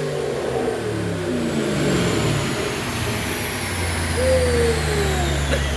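Twin-turbo Ford Boss 302's 5.0-litre V8 coming down off a full-throttle dyno pull on E85. The revs fall over the first three seconds or so and settle into idle, while a high whine falls away.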